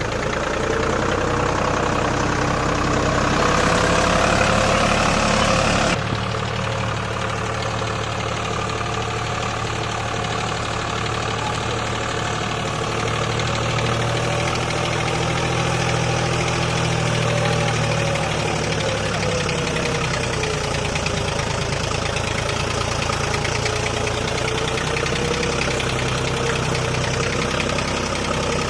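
Deutz-Fahr Agrolux 50 4WD tractor's diesel engine running under load, its pitch rising and falling with the throttle. The sound changes abruptly about six seconds in.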